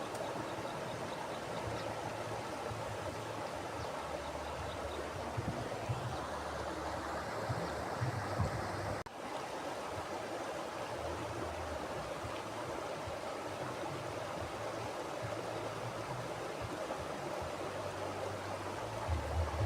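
Mountain river flowing: a steady rush of water over rocks, with a low rumble that comes and goes underneath. The sound dips briefly about nine seconds in.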